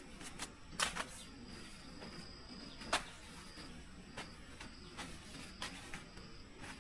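Wood fire crackling: irregular sharp pops, the loudest about one second and three seconds in, over a soft hiss.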